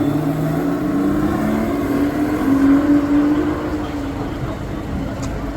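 A car passing on a city street, its engine note steady with a slight glide in pitch, loudest about halfway through and then easing off.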